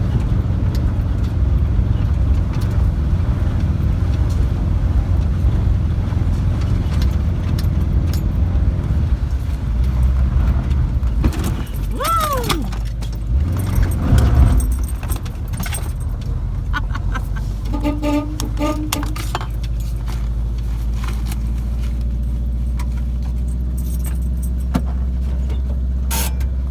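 Volkswagen Type 2 bus engine running steadily while driving, heard from inside the cab as a low rumble with light rattles. About halfway through there is a short squeak that rises and falls in pitch.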